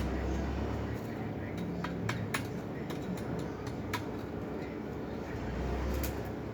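A dozen or so light, sharp clinks and taps of hard objects, irregularly spaced, over a steady background noise with a low hum near the start and near the end.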